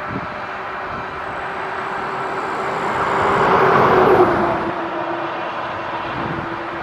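John Deere T670i combine harvester running while harvesting, passing close by: it grows louder toward the middle, and its steady hum drops in pitch as it goes past about four seconds in.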